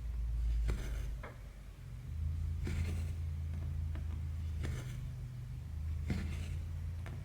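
Needle and embroidery floss being pulled through cross-stitch fabric: four times, a sharp click followed by a short swish of thread, about every two seconds, over a steady low hum.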